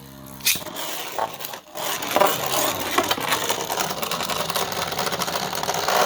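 Two 3D-printed Beyblade tops launched into a Beyblade stadium: a sharp snap about half a second in, then steady scraping and rattling of the spinning tops against the stadium floor, with frequent clacks as they hit each other.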